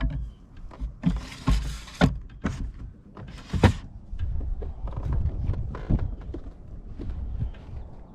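Handling noises aboard a fishing kayak: scattered clicks and knocks with two short rustling bursts, about a second in and again around three and a half seconds, over a low wind rumble on the microphone.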